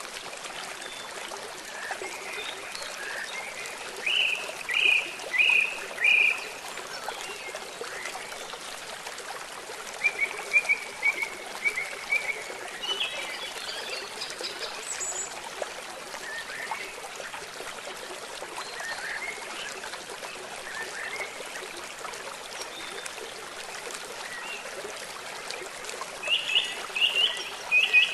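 Steady hiss of rain and running river water, with birds chirping over it in short groups of quick notes: about four seconds in, again around ten seconds in, and near the end.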